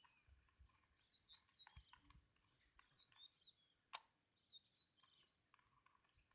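Near silence with faint bird chirps recurring throughout and a single sharp click about four seconds in.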